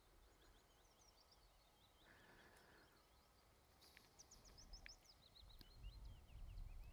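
Near silence with faint birdsong: quick runs of short chirping notes, busier in the second half. A low wind rumble on the microphone grows near the end.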